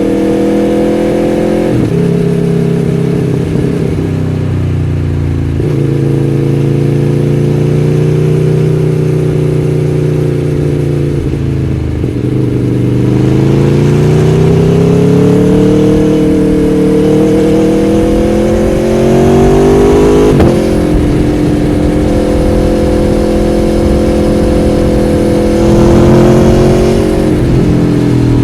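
Aprilia Tuono V4 1100 Factory's V4 engine running under way in slow traffic. Its pitch holds, steps with the gear changes and throttle, climbs steadily for several seconds in the middle, then drops suddenly at a shift.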